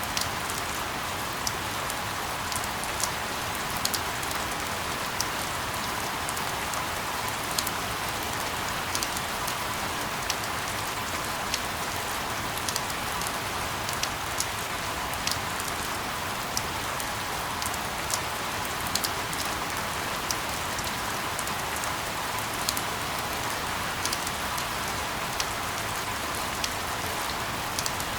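Steady rain falling, with many sharp drops ticking irregularly on a hard surface.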